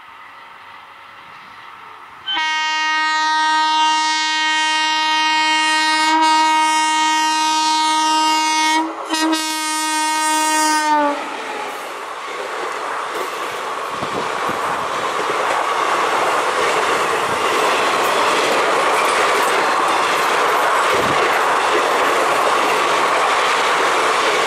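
Indian Railways electric locomotive sounding its horn as the express approaches at speed: one long blast of about six seconds, a brief break, then a shorter second blast that stops about eleven seconds in. The passenger coaches then run past close by with a steady rumble and clickety-clack of wheels on rail joints.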